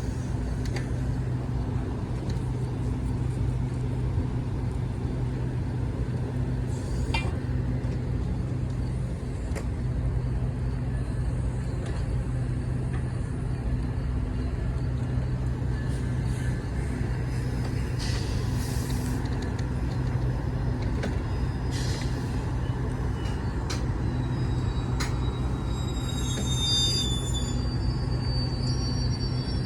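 Large diesel engine idling steadily with a low hum. There is a short hiss about two-thirds of the way through and a high squeal near the end.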